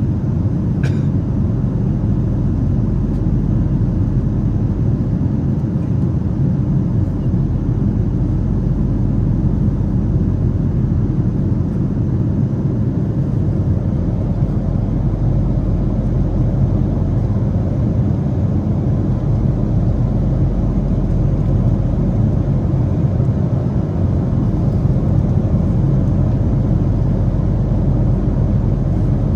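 Steady low rumble of a Boeing 777's engines and airflow heard from inside the passenger cabin, constant in level.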